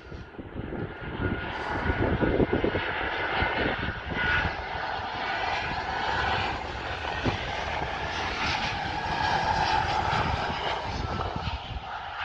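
Jet engines of an Airbus A319 airliner passing on its arrival: a steady rush of engine noise with a whine in it, swelling about two seconds in and easing slightly near the end. Wind rumbles on the microphone underneath.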